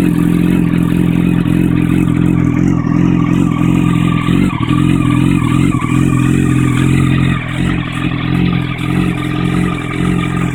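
2008 Yamaha R1's inline-four engine idling steadily on a cold start, heard at the exhaust, not yet up to operating temperature.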